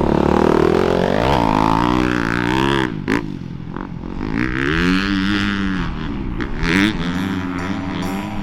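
Dirt bike engine revving, its pitch climbing and falling several times as the throttle is opened and closed, with a couple of short sharp knocks along the way.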